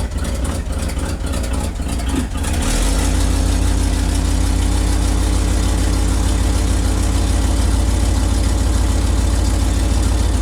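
1969 Ford F-250's engine running just after a choked start, speeding up to a higher steady speed about two and a half seconds in and dropping back near the end.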